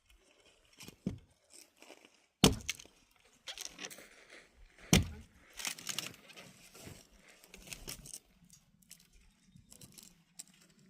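Trail-work hand tools knocking against wood and earth: two heavy knocks about two and a half seconds apart, with lighter clicks and scraping between them.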